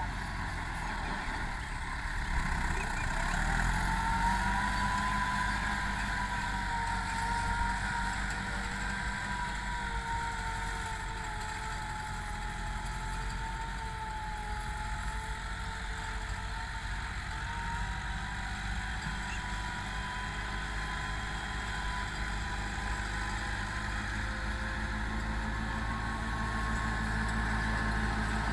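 Massey Ferguson 385 tractor's four-cylinder diesel engine running steadily, with a faint whine that wavers slowly up and down in pitch.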